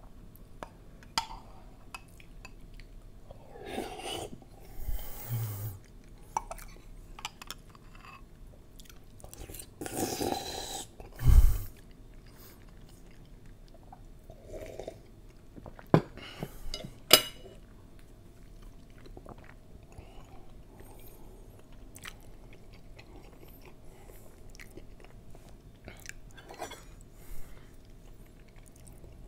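Close-up mouth sounds of a person chewing soft cathedral gelatin, soft jelly cubes in a sweet creamy milk, with a sip from the glass about halfway through. A heavy low thump sounds about eleven seconds in, and a couple of sharp clicks follow a few seconds later.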